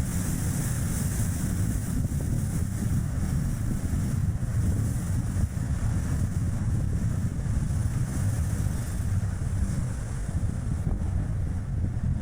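Strong gusty wind buffeting the microphone of a camera on a moving car, over steady tyre and road noise from a Chevrolet Spark light car. A deep, even rumble throughout with no break.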